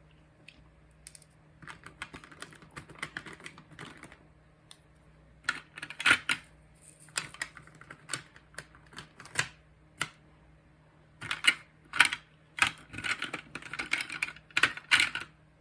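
Small hard plastic pieces clicking and rattling in quick flurries, with single sharp taps between them: diamond-painting drills being shaken in a tray and pressed onto the canvas.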